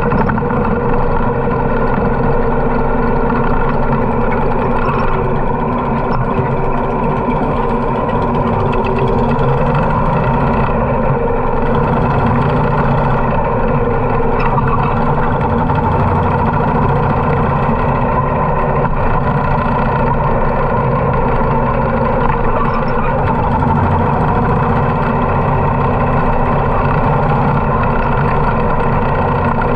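Harley-Davidson V-twin motorcycle engine running steadily while riding, its pitch rising and falling a little.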